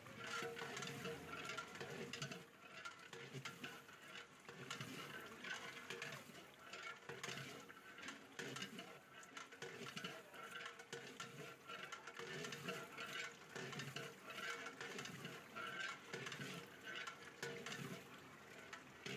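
Masala frying in oil in a large metal pot, sizzling steadily while a long metal ladle stirs and scrapes it around the pot.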